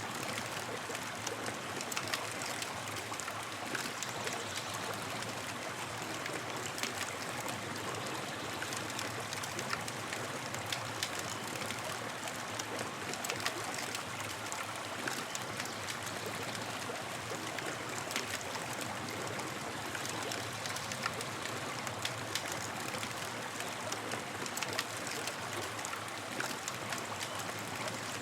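Campfire burning steadily: a constant hiss with frequent small sharp crackles and pops from the burning wood.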